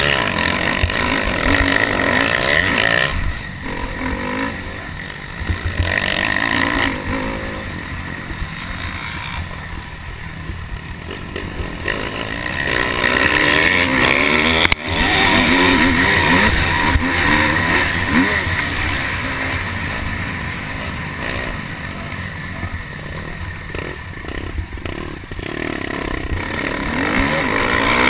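Motocross dirt bike engine racing around the track, revving up and down repeatedly as the throttle opens and closes, with a brief sharp drop in sound about halfway through.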